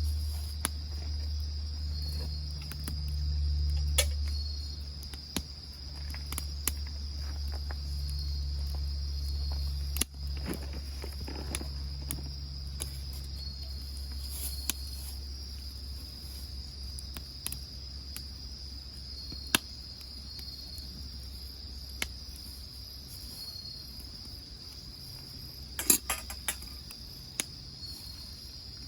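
Insects, crickets by their sound, trilling in a steady high buzz, with a wood fire giving off scattered snaps and pops. A low steady rumble lies underneath, stronger in the first half.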